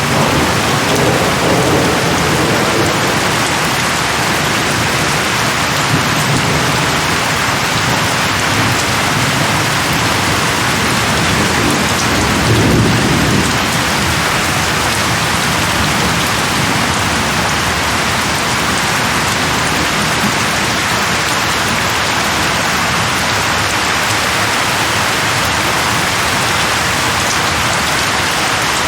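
Steady heavy rain, with low rolls of distant thunder near the start and a stronger one about twelve seconds in.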